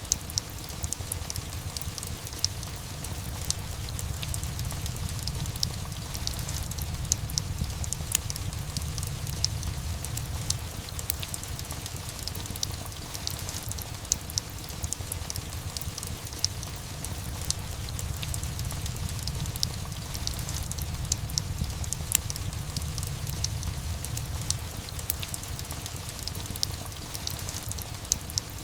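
Steady rain ambience mixed with a crackling wood fire. Sharp, irregular pops and snaps sound over a continuous low rumble.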